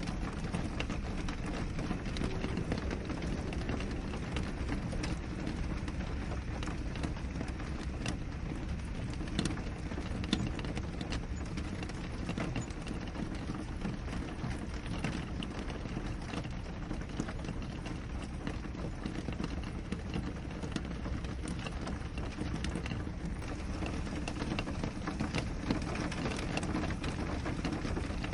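Rain falling on a window: a steady hiss with many small, irregular drop taps against the glass.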